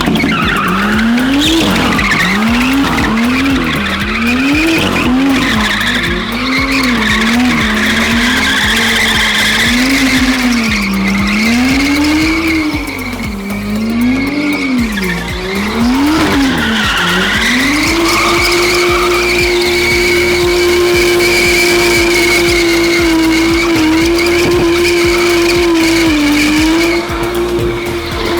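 Car doing donuts: the engine revs up and down in quick waves for the first seventeen seconds or so, then is held at steady high revs, while the tires squeal continuously.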